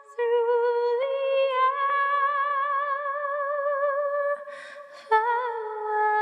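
A cappella voices holding long notes with vibrato, stepping up in pitch about a second in. A short breath is heard about four and a half seconds in before the voices come back on new notes.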